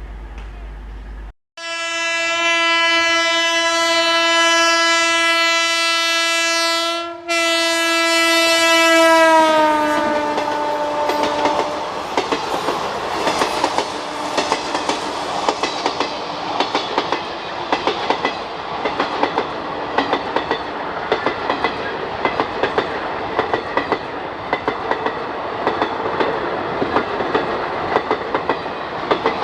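Passing electric express train sounding its horn in two long blasts, the pitch dropping as it goes by, followed by the coaches' wheels clattering steadily over the rail joints.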